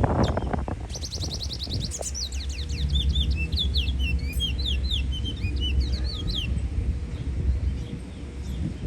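A bird singing: a fast run of high, rising notes about a second in, then a string of separate chirps that stops after about six and a half seconds, over a steady low rumble.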